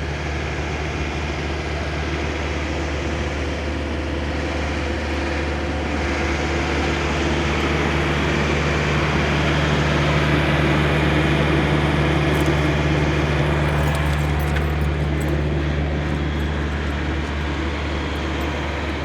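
Heavy diesel truck engine idling, a steady low drone that swells slightly midway and eases off near the end.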